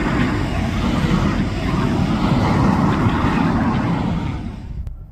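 Loud, steady roar of jet aircraft engines, which cuts off abruptly near the end.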